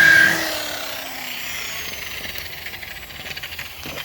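Electric rotary car polisher whining at speed, then switched off about half a second in and winding down with a falling pitch over the next second. Faint scraping ticks follow.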